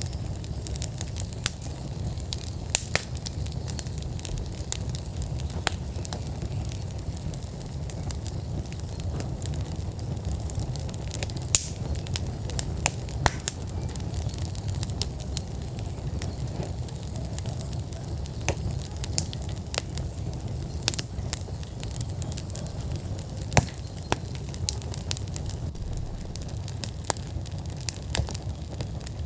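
Outdoor wood fire in a fire pit at full burn, crackling and popping with frequent irregular sharp cracks over a steady low rumble.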